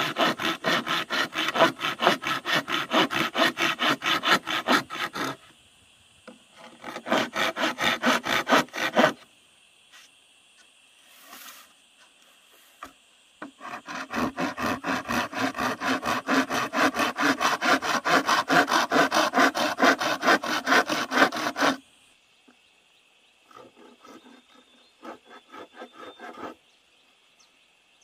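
Hand saw cutting wood with fast, even back-and-forth strokes, about five a second, in three long runs and a fainter short one near the end. A steady high insect buzz runs under it from about five seconds in.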